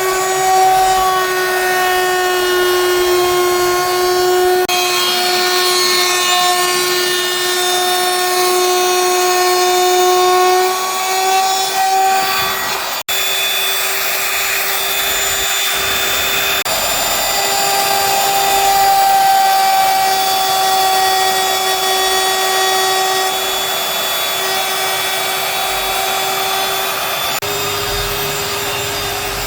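Handheld electric power tool running steadily on wood, its motor giving a high, even whine over a rough grinding hiss, with the pitch drifting slightly as it is worked; the sound breaks off for an instant about thirteen seconds in.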